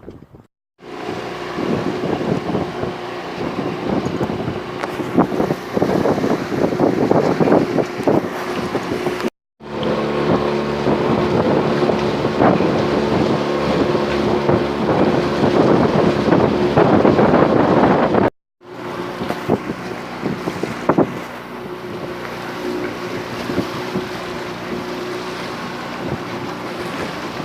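Small sailing catamaran under way: wind buffets the microphone and water rushes past, over a steady low drone. The sound cuts out briefly twice.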